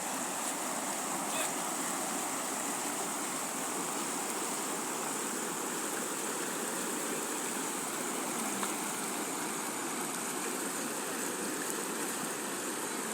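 Steady rushing of running water after rain, an even noise that holds constant throughout.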